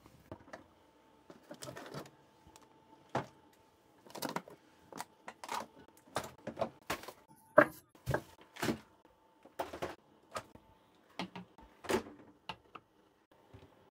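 Irregular knocks, clicks and clatters of objects being handled, with a faint steady hum underneath.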